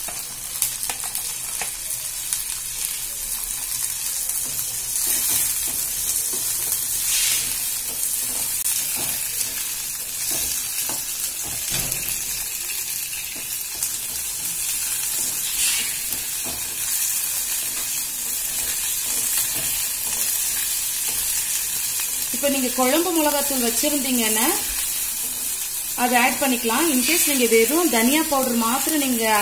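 Small onions and garlic sizzling as they fry in oil in an aluminium kadai, with a steel ladle stirring and scraping against the pan now and then. Over the last several seconds a wavering pitched voice, like singing, joins the sizzle.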